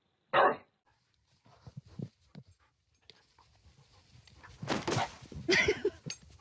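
A dog barks once, loudly and briefly, just after the start, the last of a series of barks about a second apart. Fainter scattered sounds follow, then a louder, rougher stretch about five seconds in.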